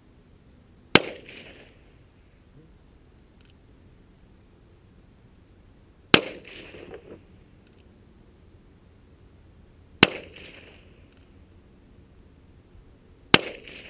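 Four shots from a Heritage Arms Rough Rider .22 single-action revolver firing CCI .22 Long Rifle shot shells (bird shot). Each shot is a single sharp crack with a brief fading tail, spaced several seconds apart, with the gaps getting shorter toward the end.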